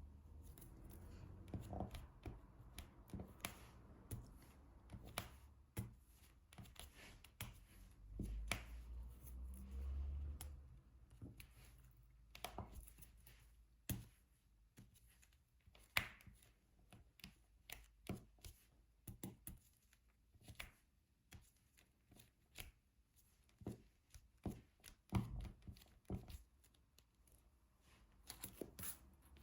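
Diamond painting handling sounds: a drill pen tapping resin drills onto the sticky canvas, heard as small, irregular clicks and taps. A low rumble of handling runs from about 8 to 10 seconds in.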